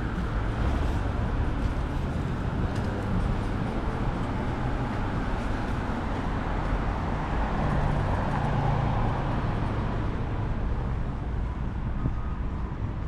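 Street traffic: cars and other road vehicles running by in a steady rumble of engines and tyres, swelling a little past halfway as one passes closer.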